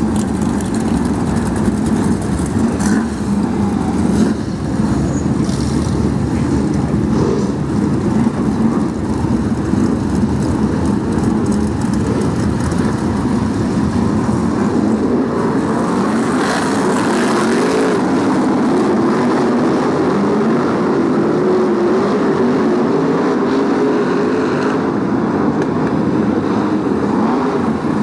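A pack of Brisca F1 stock cars' V8 engines running on the oval track, loud and continuous. From the middle of the stretch onward, one engine's pitch is heard rising and falling as it is revved and backed off.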